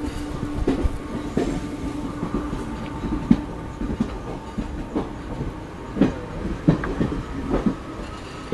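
Passenger train running, its coach wheels clattering over rail joints in irregular clacks, over a steady low hum of the moving train.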